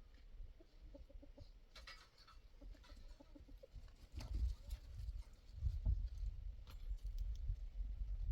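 Chickens clucking in short, repeated calls, with a few light knocks. From about halfway through, a low rumble comes in and grows louder.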